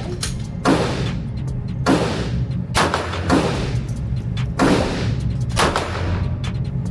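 Semi-automatic pistol fired in steady slow fire, about one shot every second and a quarter, each with a long echoing tail. Fainter, sharper shots fall between them.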